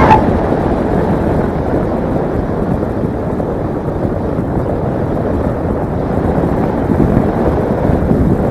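A high motor whine cuts off right at the start, leaving a steady rushing noise like wind buffeting the microphone.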